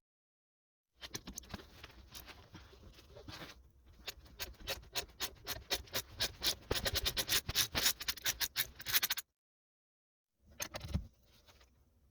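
Rapid run of sharp clicks from a hand ratchet working a bolt loose on the car's suspension. The clicks come faster and louder toward the end and stop suddenly. A single thump follows a little later.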